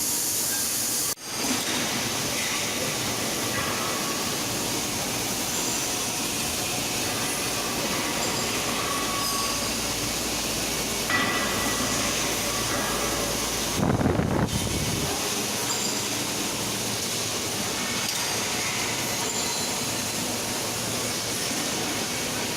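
Steady loud industrial machinery noise, with a brief louder low rumble about two-thirds of the way through.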